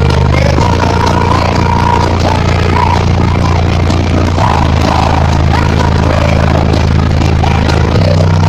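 Loud music played through a Ground Zero car audio system, dominated by long held bass notes from the subwoofer that change pitch three times over a few seconds.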